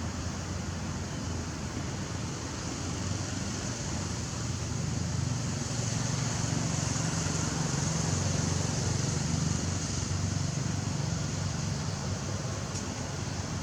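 Steady low engine hum from a passing or idling vehicle, growing a little louder in the middle and easing off near the end, over a constant high hiss.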